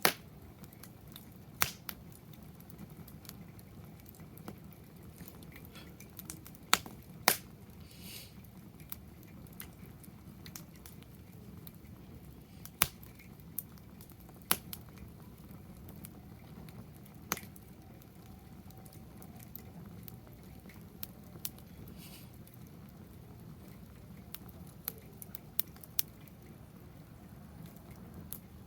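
Wood fire in a fire pit crackling, with a dozen or so irregular sharp pops over a steady low background hum.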